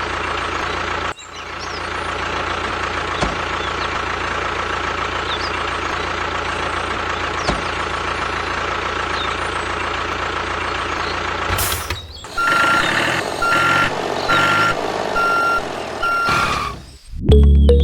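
A vehicle motor running steadily, with a brief break about a second in. Near the end it gives way to a reversing alarm beeping about five times in a row.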